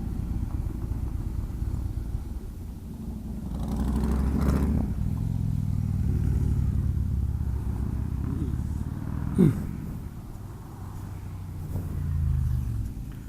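Motorcycle engine running on the road, its note swelling about four seconds in and again near the end. A brief, sharp whine that rises and falls in pitch, about nine seconds in, is the loudest moment.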